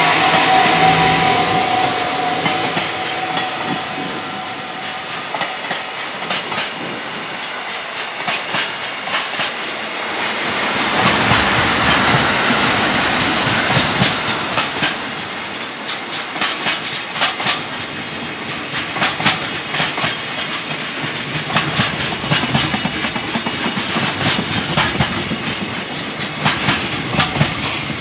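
Freight train rolling past: a steady tone fades over the first few seconds, the rush of the train swells around the middle, then the wagon wheels clatter rhythmically over the rail joints.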